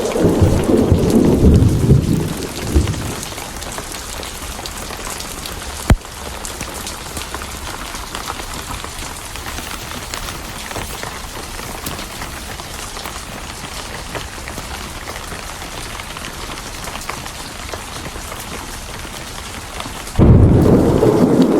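Steady rain with thunder. A low rumble of thunder dies away over the first three seconds, leaving rain alone with one sharp click about six seconds in; a loud rumble of thunder starts suddenly about twenty seconds in.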